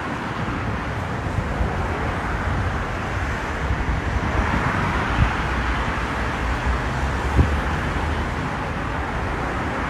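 Steady road traffic noise, with a vehicle passing and swelling louder about halfway through, and a couple of brief low thumps.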